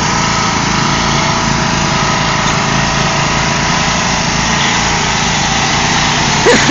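Riding lawn mower engines running steadily under load, a Craftsman and a Troy-Bilt straining against each other in a pulling contest. A brief louder sound with a sliding pitch comes near the end.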